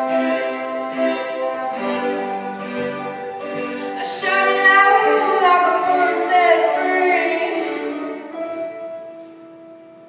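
A song ending: a female voice sings a loud final phrase over the accompaniment about four seconds in, then the music settles on one held note that fades away.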